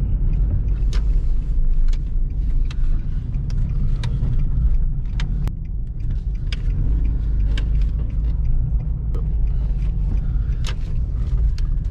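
Car's engine and road rumble heard from inside the cabin, a steady low drone, with scattered light clicks and knocks at irregular moments.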